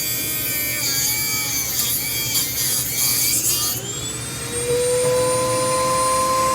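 Dremel-type rotary tool cutting into metal. Its whine rises and falls in pitch with a grinding hiss until almost four seconds in, then the tool runs free and settles into a steady high whine.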